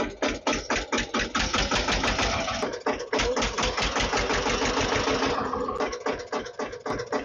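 Tractor engine chugging with a steady pulsing beat of about five pulses a second. The beat quickens for a stretch partway in, then slows again near the end.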